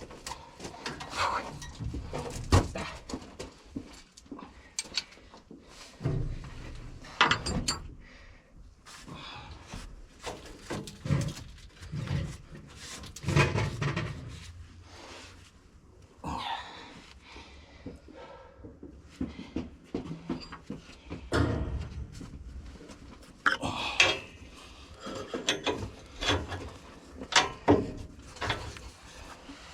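Irregular knocks, clicks and clanks at an uneven pace, some sharp and louder than others, from hands-on work on farm machinery.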